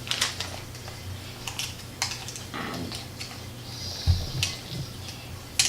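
Light, irregular clicks and taps of a plastic toy fire truck and its parts being handled, with a soft thump about four seconds in and a faint low hum underneath.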